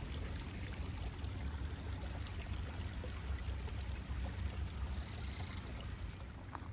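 A small stream babbling: a steady rush of running water.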